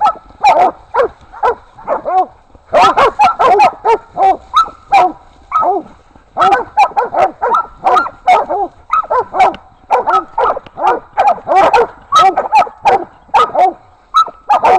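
Hog-hunting dogs barking at a cornered wild sow, baying her. Rapid, loud barks come in runs of a few seconds, with short breaks between.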